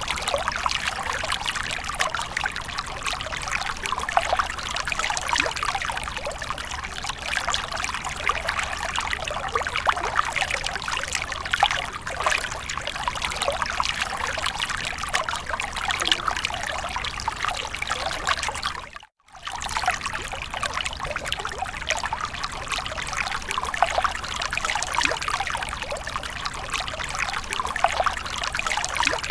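Water splashing and trickling without pause, a dense run of small splashes. The sound cuts out for a moment about two-thirds of the way through, then carries on as before.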